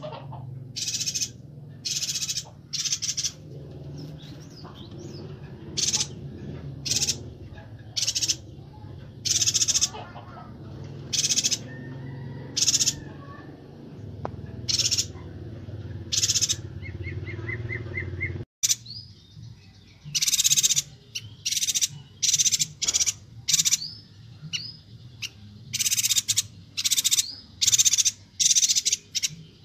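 Chestnut-crested yuhinas calling: short, sharp, high chirps repeated about once a second, then coming faster and closer together in the last third, with a brief rapid run of lower notes just before. A low steady hum lies under the calls and cuts off abruptly about two-thirds of the way through.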